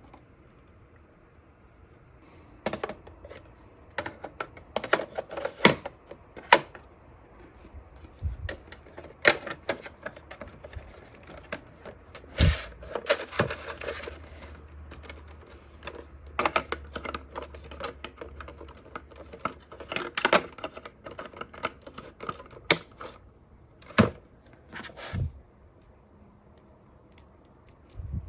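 Irregular clicks, taps and knocks of hands handling a small plastic mini fan humidifier and its packaging, with short stretches of rustling.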